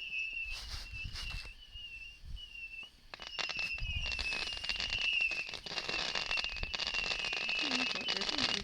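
Fireworks: a high wavering whistle from whistling missiles, joined about three seconds in by a dense run of rapid crackling pops. This is typical of a "missile command" firework barrage.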